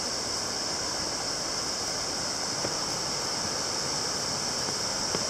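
Steady rush of a waterfall and its stream, an even hiss with no breaks.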